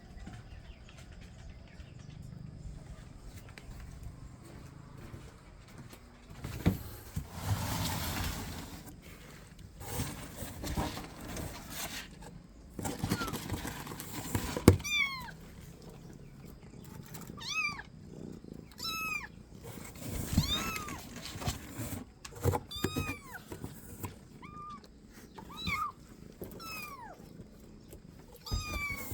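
Kitten mewing, over a dozen short high-pitched meows one after another in the second half. Before them come rustling and a few knocks.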